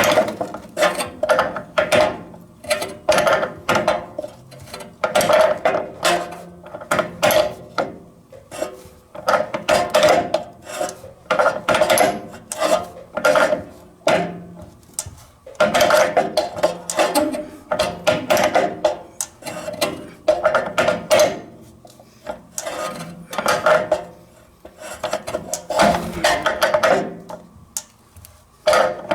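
Metal tool scraping and clicking on a threaded pipe fitting, in many short, irregular strokes with brief pauses between groups, as a water heater nipple connection is tightened.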